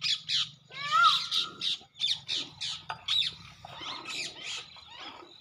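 Harsh bird squawks and chattering calls, short and repeated about three times a second.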